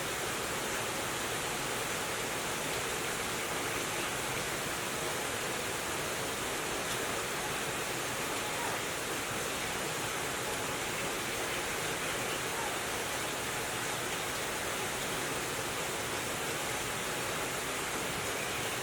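Steady, even rushing noise with no distinct events, like running water or hiss.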